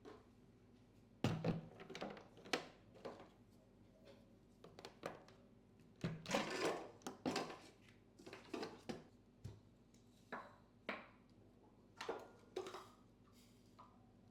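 Kitchen work sounds: irregular knocks, clinks and short scrapes of pots, utensils and wood, with a busier run of clatter about six seconds in.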